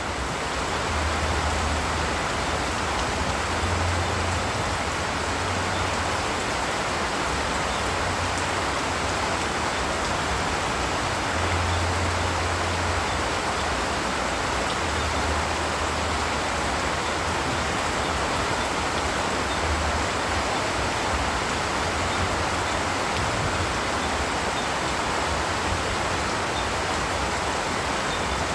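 Steady rain falling in a forest, a constant even hiss with no let-up.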